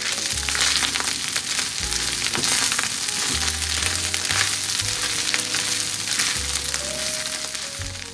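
Stir-fry sizzling and crackling in a black iron skillet over high heat, stirred and pushed around with a wooden spoon.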